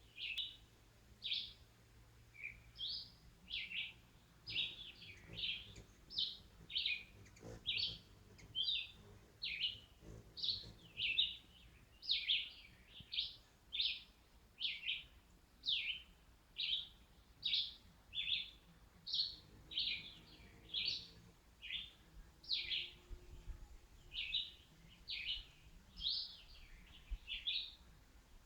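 A bird chirping over and over: short, high, sharp notes at about one and a half a second, keeping a steady pace.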